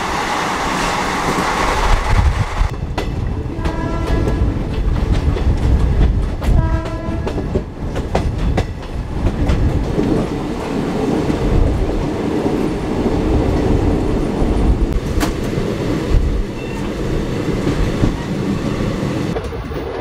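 Haldibari Superfast Express passenger train running at speed, its wheels rumbling and clacking over the rail joints. A train horn sounds in two short blasts, about four and seven seconds in.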